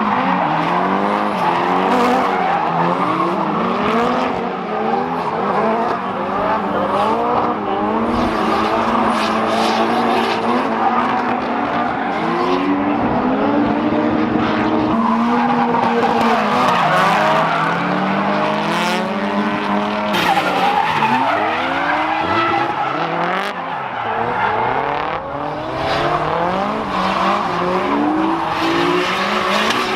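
Drift cars on track: several engines revving up and dropping over and over as the drivers work the throttle, overlapping one another, over the steady hiss of squealing tyres.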